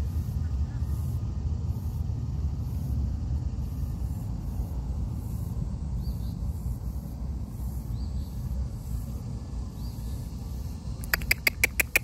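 Steady low rumble on the microphone with a few faint high chirps; near the end a bird gives a quick run of about eight sharp, high calls.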